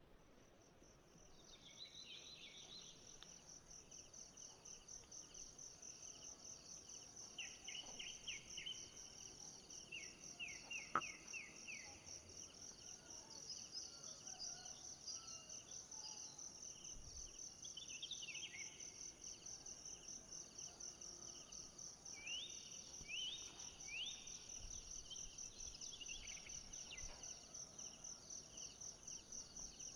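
Forest insects trilling in a steady, high, fast-pulsing chorus, with runs of short down-sliding bird calls breaking in several times. A single sharp click about eleven seconds in.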